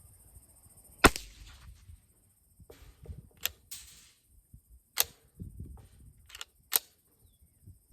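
Semi-automatic Savage A17 rimfire rifle firing 17 HMR: several sharp cracks spaced a second or two apart, the first the loudest.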